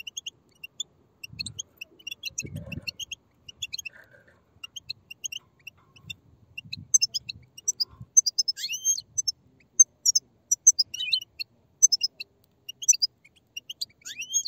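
A group of European goldfinch chicks giving rapid, high, overlapping begging chirps, with an occasional rising slurred call. A few soft low thuds sound in the first half.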